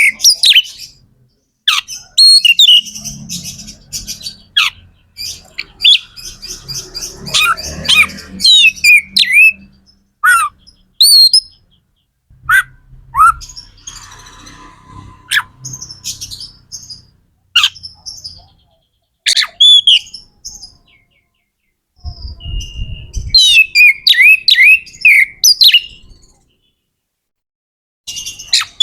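Oriental magpie-robin (kacer) singing loudly: fast, varied phrases of sliding whistles, chirps and harsh notes, broken by brief pauses.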